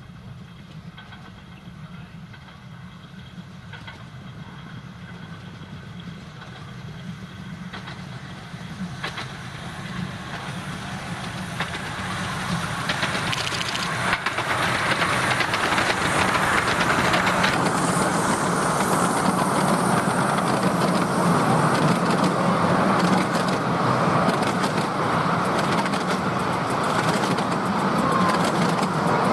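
A 10.25-inch gauge miniature steam train approaching, growing steadily louder over about fifteen seconds, then running close by with a steady rush of noise.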